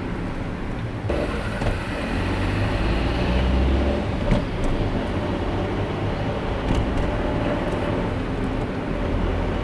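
Road noise of a car driving on a highway: a steady rumble of tyres and traffic that gets fuller about a second in and swells into a deep low rumble around three to four seconds in. A single sharp tick follows just after the rumble.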